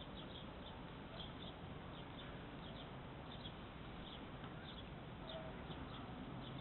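Small birds chirping: short high chirps, about two a second, over a steady outdoor hiss.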